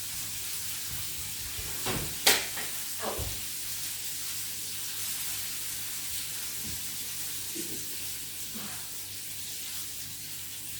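Chicken fillets frying in a pan, giving a steady sizzle, with a sharp clack about two seconds in and a few soft knocks around it.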